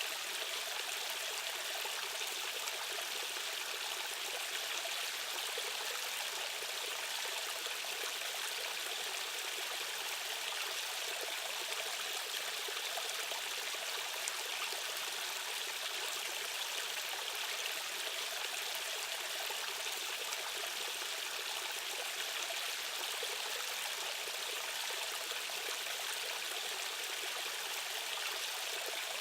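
Rushing water of a fast stream's current, a steady, unbroken hiss of flowing water with little deep rumble.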